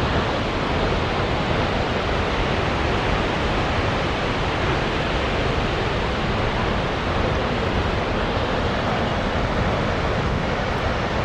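Snoqualmie Falls waterfall: a steady, even rush of falling water.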